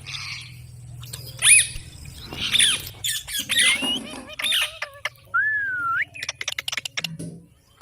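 Parrot squawking: several sharp screeches that bend up and down in pitch, then a drawn-out whistle that dips and rises about five seconds in, followed by a quick run of clicks.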